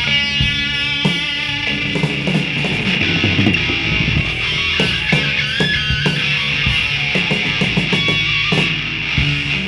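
Rock music with electric guitar over drums, playing steadily throughout.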